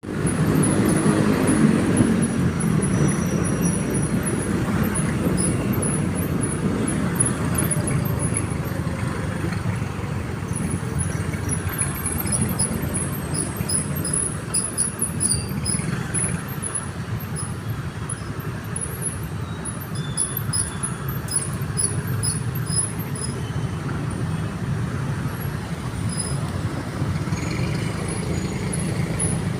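Road traffic noise: a steady rumble of passing cars and other vehicles.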